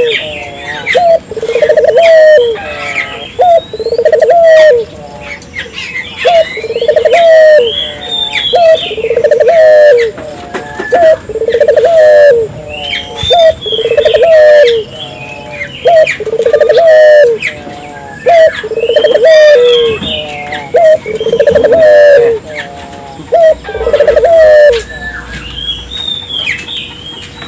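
Barbary doves (puter) cooing vigorously over and over, a low coo about every one and a half seconds, until the cooing stops near the end. Small birds chirp higher up throughout.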